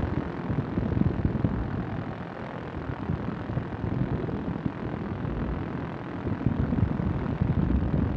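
Quicksilver ultralight's two-stroke engine and propeller running in flight, mixed with wind rush, on the approach to landing. The loudness sags a little in the middle and picks up again near the end.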